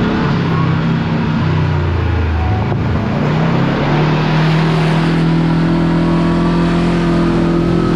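Kawasaki Teryx KRX side-by-side's parallel-twin engine running under way. The revs drop about two seconds in, climb again and then hold steady.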